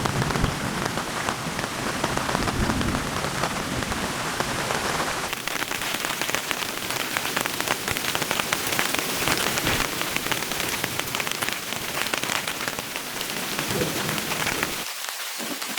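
Heavy rain falling, a dense patter of drops striking a surface, with a low rumble underneath during the first few seconds.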